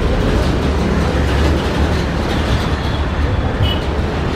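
Passenger train running past on the yard tracks: a steady rolling rumble of wheels on rail, with some light clatter.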